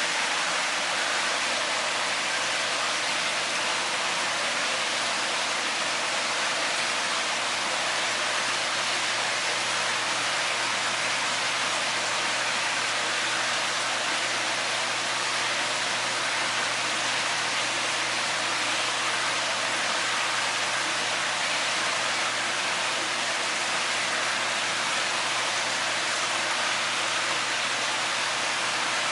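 Steady rushing noise like running water, unchanging throughout, with a low steady hum underneath.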